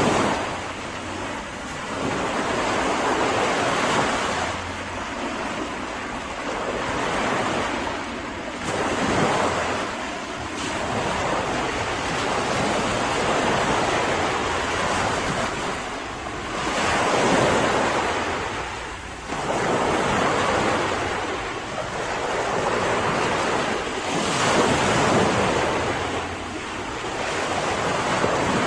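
Mediterranean sea waves breaking and washing up a beach, the surf swelling and falling back every few seconds.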